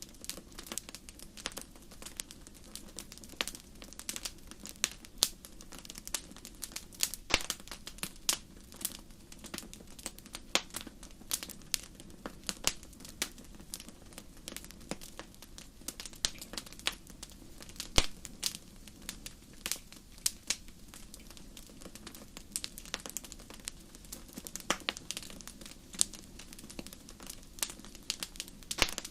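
Bonfire crackling: irregular sharp pops and snaps of burning wood over a faint steady low rush.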